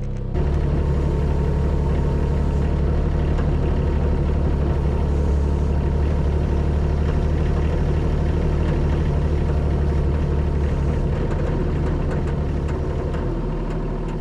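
Mini excavator engine running steadily. It steps up in speed just after the start and eases back near the end.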